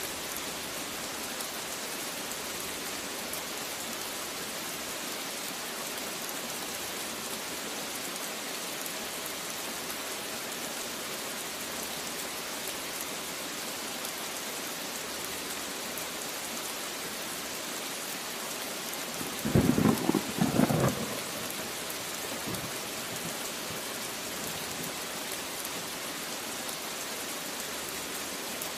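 Steady rain hissing down, with a short clap of thunder about two-thirds of the way through, two quick peaks over a second and a half.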